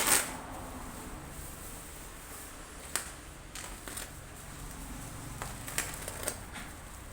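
Laptop box packaging being handled: a loud rustling scrape at the start, then scattered light clicks and taps.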